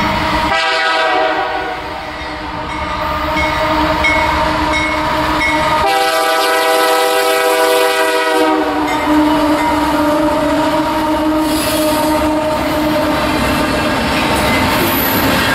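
Diesel freight locomotive horn sounding two blasts, each several notes at once: one of about two seconds just after the start, and a longer one of about two and a half seconds around six seconds in. Then two Canadian Pacific diesel locomotives and a train of tank cars roll past.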